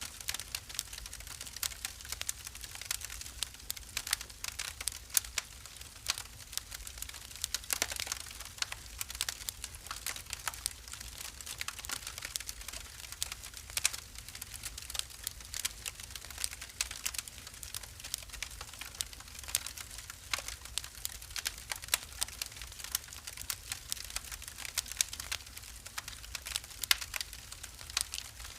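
Wood fire burning in a fireplace, crackling and popping with many quick, irregular snaps over a low steady rumble.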